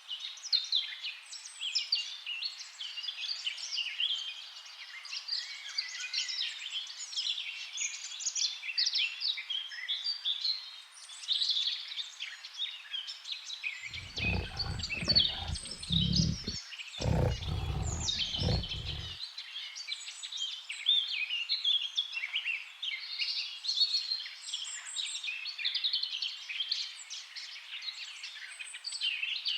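Dense chorus of many birds chirping and calling over one another, with two short bursts of a deep, low sound about halfway through.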